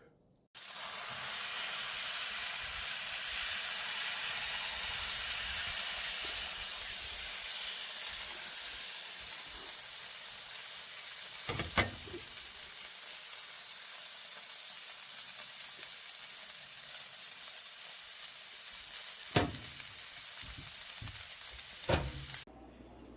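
Smash burger patties sizzling steadily on very hot cast iron. Three sharp knocks on the iron, one about halfway and two near the end, and the sizzle cuts off shortly before the end.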